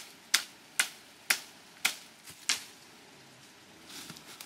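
Five sharp, crisp clicks at an even pace of about two a second, stopping a little past halfway, followed by a faint rustle.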